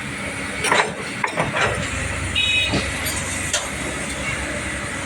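Heavy vehicles' engines running at a roadside construction site, a steady low rumble broken by several sharp knocks. A short high-pitched tone sounds about halfway through.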